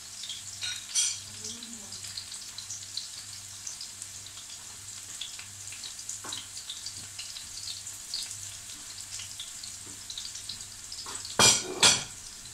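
Garlic and onion frying in hot oil in a pan, a steady sizzle with small crackles. Two loud knocks about half a second apart near the end.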